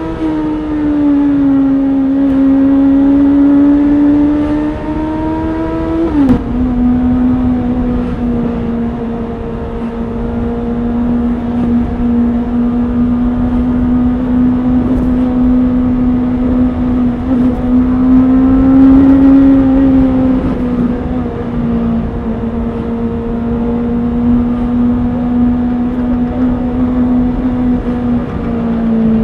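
Honda CBR650R's inline-four engine running at a fairly steady pitch. The pitch falls away over the first couple of seconds and drops suddenly about six seconds in, then holds steady, with a slight rise and fall around twenty seconds in.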